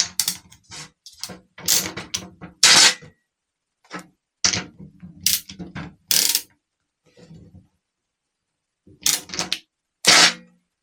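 Metal clicks and scrapes of a hand tool undoing a nut on a starter motor's terminal stud. They come in irregular bursts of a second or two, with brief pauses between.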